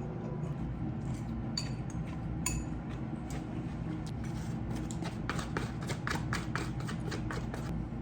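Tableware clinking over a steady low hum: a couple of ringing chinks in the first few seconds, then a run of quick light clicks of dishes and utensils in the second half.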